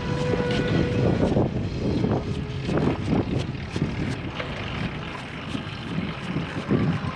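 Wind buffeting a GoPro microphone during a bicycle ride: an uneven, gusty rumble with a few sharp clicks.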